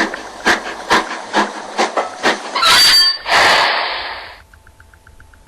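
Train sounds: wheels clattering over rail joints in an even beat about twice a second, then a brief squeal and a long burst of air hiss. A faint run of quick beeps follows near the end.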